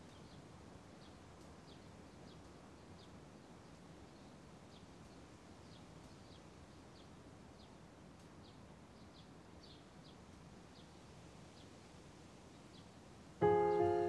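Faint steady background hiss with a small bird chirping over and over in short high chirps. Near the end, piano notes strike loudly and soft piano music begins.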